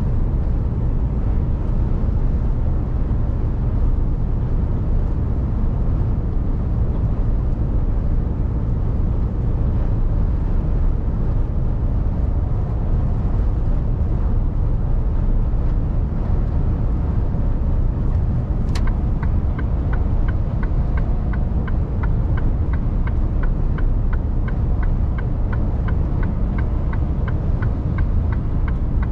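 Mercedes-Benz Actros truck on the move, heard from inside the cab: a steady low rumble of diesel engine and road. About two-thirds of the way in there is a single click, then a fast, even ticking.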